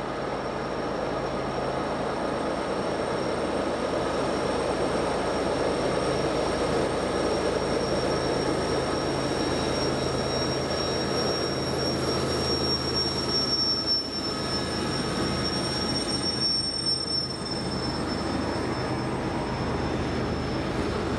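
Long freight train rolling steadily past, its wheels giving off a thin, high, steady squeal that grows strongest about halfway through.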